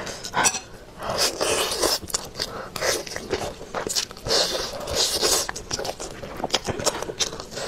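Close-up eating sounds: biting and chewing roasted chicken drumstick meat, with wet mouth noises and quick sharp clicks.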